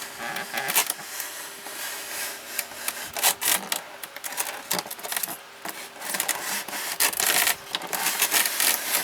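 Small utility knife blade sawing through a styrofoam (expanded polystyrene) box, a run of irregular scratchy rasping strokes, easing off around the middle and denser again near the end.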